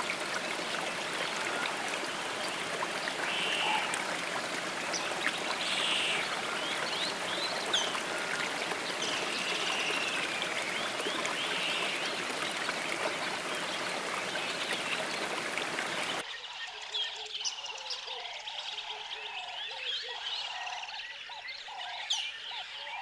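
Running stream water with birds chirping over it. About two-thirds of the way through, the water sound cuts off abruptly, leaving birdsong and a repeated lower call.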